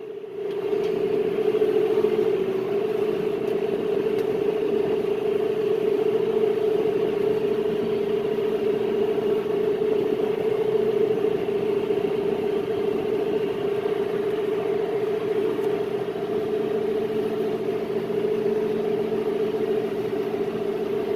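John Deere 5100E tractor running at a steady engine speed, a constant diesel drone.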